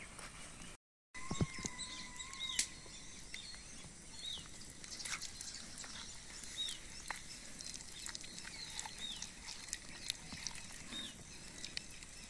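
Outdoor ambience with a bird repeating a short down-slurred chirp every couple of seconds, over scattered light clicks. About a second in, a thump comes with a steady whistle-like tone lasting about a second.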